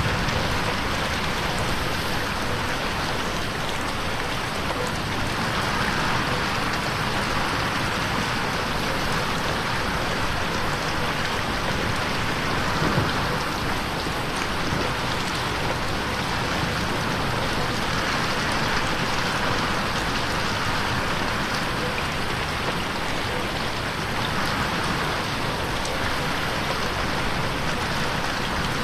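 Steady, heavy rain pattering on a window pane.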